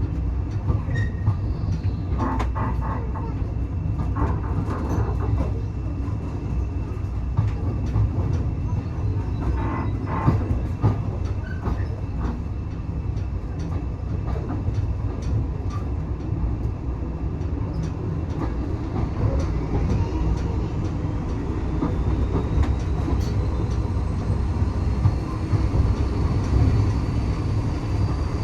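Passenger train coach running along the track: a steady low rumble with scattered rattles and clicks, and a faint, slowly rising whine in the last few seconds.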